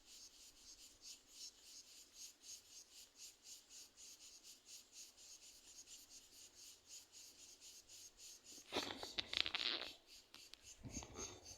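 Cricket chirping in a steady, even rhythm of about four high chirps a second. Near the end, two louder passages of rustling, scraping noise, each about a second long, cover the chirping.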